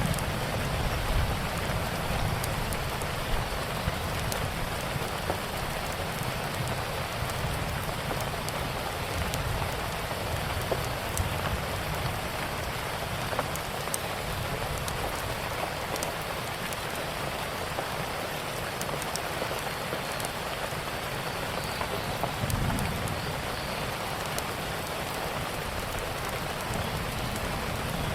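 Steady heavy rain falling on a surface, with scattered sharp ticks and crackles throughout. A low rumble swells briefly about three-quarters of the way through.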